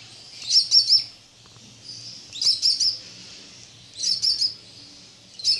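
Budgerigar chicks giving short, high 'chee-chee' chirps in quick runs of about three, four times. Chicks make this small call when brooded under the hen's wings.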